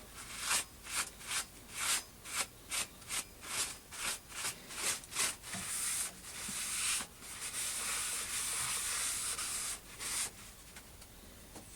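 Brass plate being worked by hand with an abrasive: about a dozen rhythmic rasping strokes, roughly two a second, then a few seconds of continuous rasping that stops about ten seconds in.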